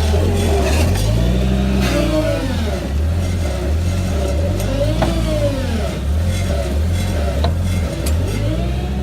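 Ford F550's V10 gas engine running under hydraulic load, its speed rising and falling again and again as the hydraulic outriggers are worked, with a pump whine gliding up and down in pitch.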